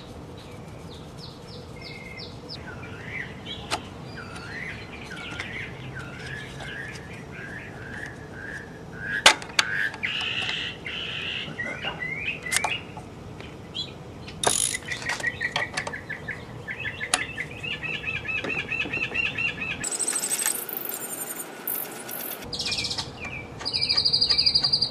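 Small birds chirping and singing in short trills, with a fast, high trill near the end. Occasional sharp clicks and knocks from electrical connectors and metal parts being handled, the loudest about nine seconds in.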